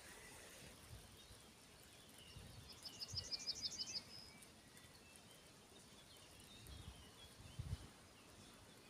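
A small songbird sings a fast, high trill of about ten notes lasting about a second, over faint scattered chirps from other birds. A few soft low thumps come through as well.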